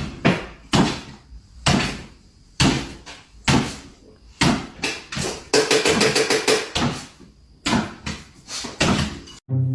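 A series of sharp knocks and bangs, roughly one a second, with a quick rattling run of strokes about halfway through.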